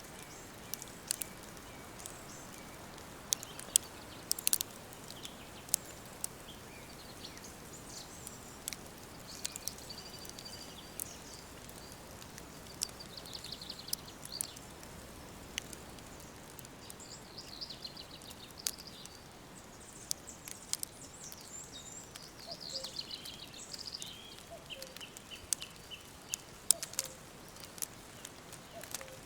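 Wood fire crackling with scattered sharp pops over a steady low hiss, while songbirds sing high, quick trills, mostly in the middle and again after about twenty seconds.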